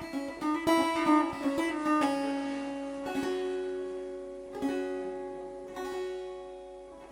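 Three-string kopuz played in improvisation: a run of quick plucked notes, then a few single strokes about a second apart whose notes are left ringing and fading away.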